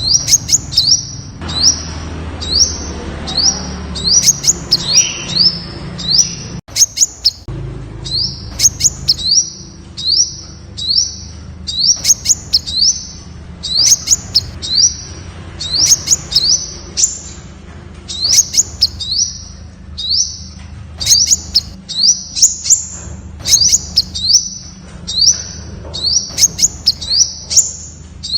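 Temminck's sunbird calling: a rapid series of short, high rising notes, two to three a second in runs, mixed with sharp high ticks. There is a brief break about seven seconds in.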